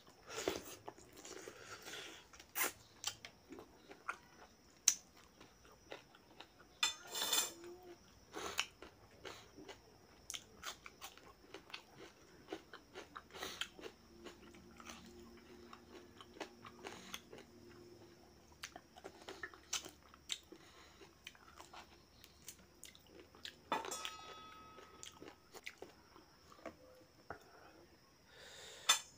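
Person eating rice and mutton curry by hand, chewing close to the microphone with irregular sharp mouth clicks and crunchy bites.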